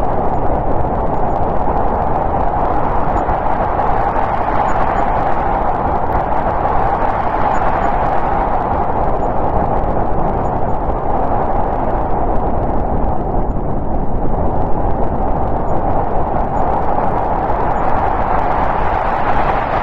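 Snowstorm wind blowing steadily, a dense rushing that swells and eases slowly every few seconds.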